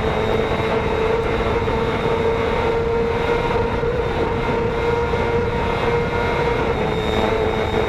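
Racing motorcycle engine held at high revs at a nearly constant pitch, with heavy wind rush over the machine.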